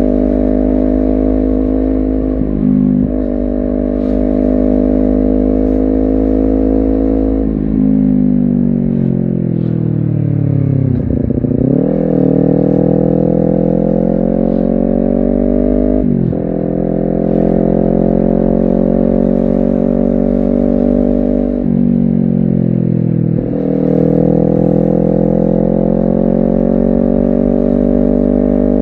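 Honda CBR250RR engine and exhaust while riding. It holds steady revs, with a quick dip and recovery at each gear change several times, and slows to low revs about ten seconds in before pulling up again.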